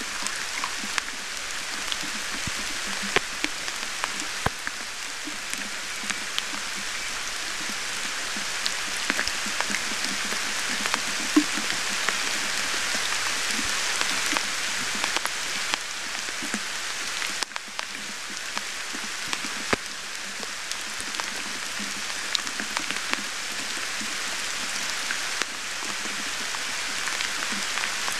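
Steady rain falling, with frequent sharp taps of single drops landing close by.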